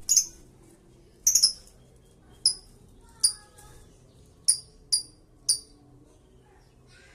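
Lovebird giving short, shrill, high-pitched chirps, about seven in all at uneven intervals, one of them a quick double call, over a faint steady background hum.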